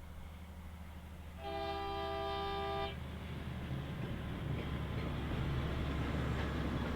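Cane train diesel locomotive sounding its horn once, a steady chord about a second and a half long, over the low rumble of its engine. After the horn the engine and train noise grow louder as it comes closer.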